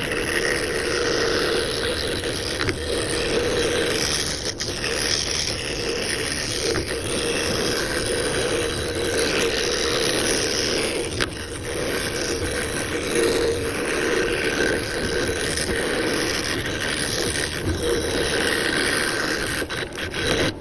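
A power tool working wood, running steadily with a scraping sound, then cutting off suddenly at the end.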